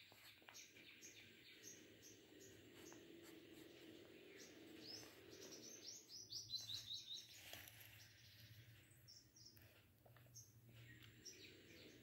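Faint chirping of small birds: a string of short high chirps, then a quick dense run of notes about five to seven seconds in.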